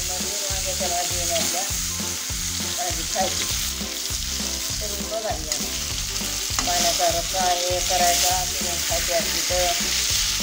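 Wheat-dough 'brinjals' sizzling steadily in hot oil in a kadhai, with a metal spatula turning them and scraping the pan.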